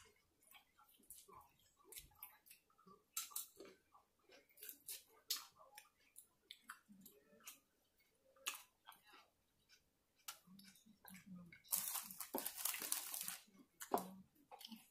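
Close-up chewing and crunching of salad with croutons, a run of short crisp crunches and clicks, with a longer, louder noisy stretch about twelve seconds in.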